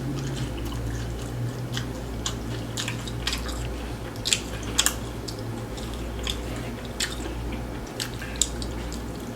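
Close-up chewing and crunching of a crispy fried chicken wing dipped in sweet chili sauce: irregular short crunches, a few sharper ones around four to five seconds in and again near eight seconds, over a steady low hum.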